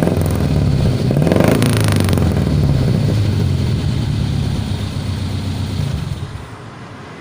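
Suzuki Futura's carburetted four-cylinder engine running through a newly fitted 4-3-1 header and aftermarket muffler. It is blipped once about a second in, settles back to a loud idle, and dies down about six seconds in.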